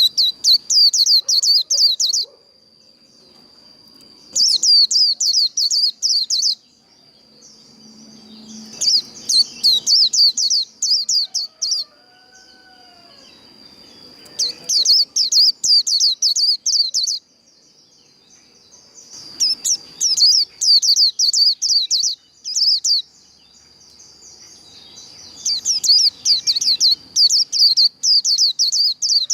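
White-eye (vành khuyên) singing its fast trilling 'líu' song in repeated bouts of about two seconds, each a rapid string of high sweeping notes, with short pauses between. A steady high-pitched tone sounds underneath throughout.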